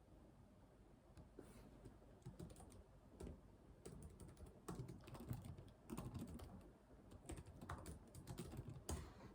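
Typing on a computer keyboard: quick, soft key clicks in bursts, starting about a second in.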